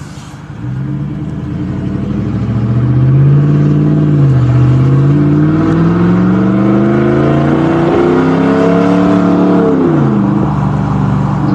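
2017 Ram 1500's 5.7 Hemi V8 running with no muffler or tailpipes, accelerating with a deep bass exhaust note. The pitch climbs, dips about four and a half seconds in, climbs again, and drops sharply near ten seconds before settling.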